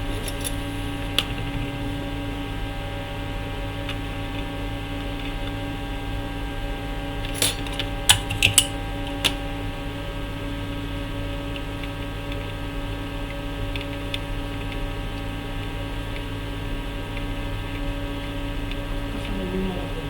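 Steady electrical mains hum, with a short cluster of sharp clicks about seven to nine seconds in.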